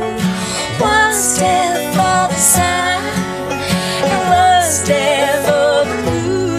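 Live acoustic band music with a bluegrass feel: strummed and plucked acoustic guitar and other plucked strings under a wavering melody line, with no break in the playing.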